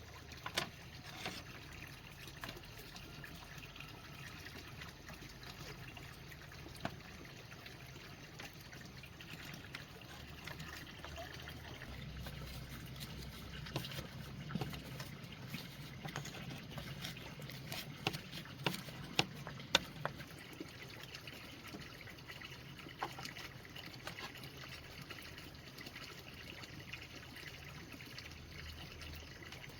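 Water trickling steadily, with scattered sharp clicks and knocks, several close together about two-thirds of the way through.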